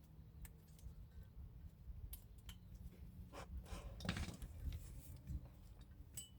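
Faint scattered metal clicks and a short scraping rub about three to four seconds in, from brake parts and tools being handled during caliper work.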